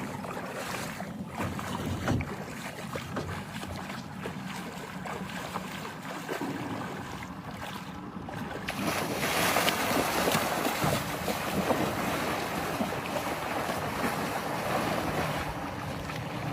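River water splashing and sloshing, with wind buffeting the microphone; the splashing gets louder and rougher about nine seconds in.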